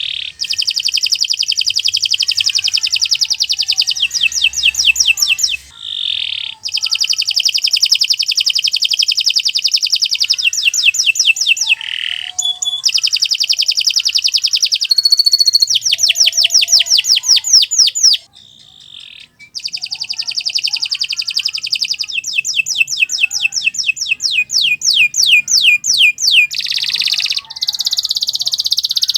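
Domestic canary singing a long, vigorous song of fast trills: runs of rapidly repeated notes alternate with buzzy rolls. The song breaks off briefly about six seconds in and again around eighteen seconds.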